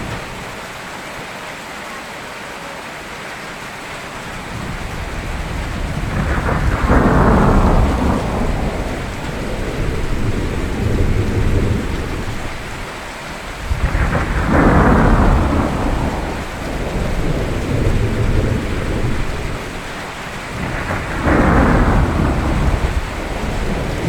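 Steady rain with three thunderclaps about seven seconds apart, each a sudden crack that rolls into a long low rumble.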